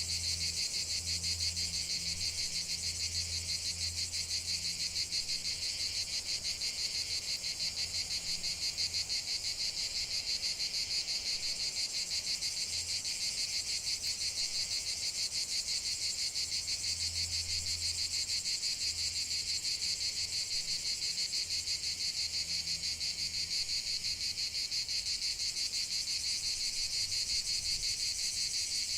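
Steady chorus of insects trilling, a dense, rapid high-pitched pulsing that never lets up.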